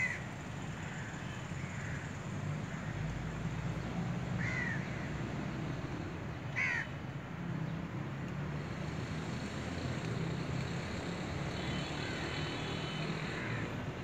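A bird calling a few times: short separate calls near the start, about four and a half seconds in and about seven seconds in, with a fainter one near the end, over a steady low hum.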